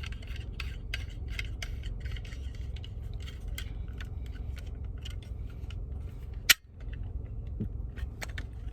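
Irregular plastic clicks and taps from handling and adjusting a phone car mount, with one sharp, loud click about six and a half seconds in, over a steady low rumble.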